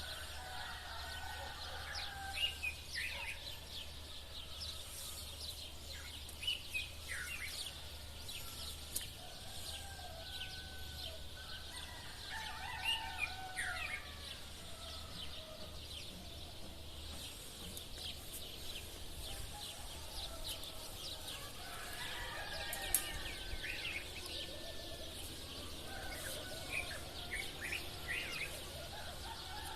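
Sparrows chirping continuously, with roosters crowing every few seconds.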